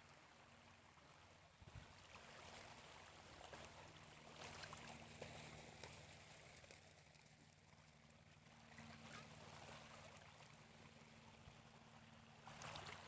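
Near silence: a faint steady low hum under a soft hiss.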